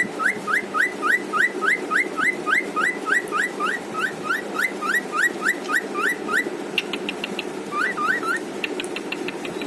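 Cockatiel singing: a fast run of rising whistled notes, about four a second, that stops about six and a half seconds in. After it come two short bursts of rapid clicks with a brief wavering whistle between them.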